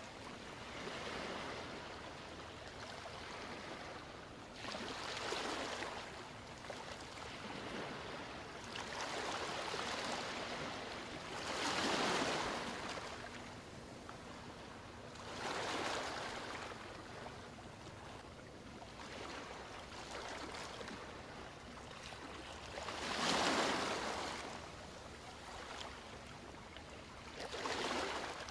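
Ocean waves breaking on a shore, one wash of surf swelling and fading every few seconds over a steady background rush, two surges louder than the rest.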